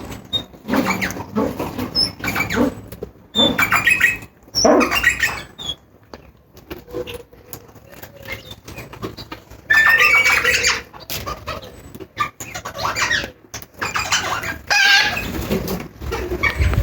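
Lord Derby's parakeet giving harsh squawking calls in repeated bursts, with a quieter stretch of a few seconds near the middle.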